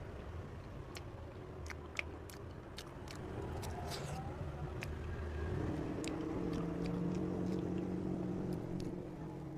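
Wet clicks and smacks of someone chewing cake in the first half. From about halfway in, a motor vehicle's engine runs past, steady and louder, easing off near the end.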